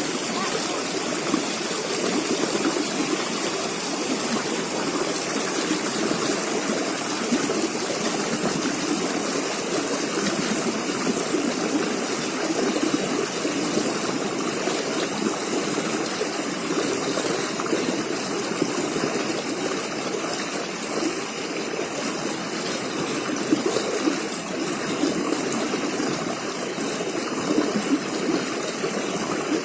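River water flowing steadily, a continuous rushing with an even level.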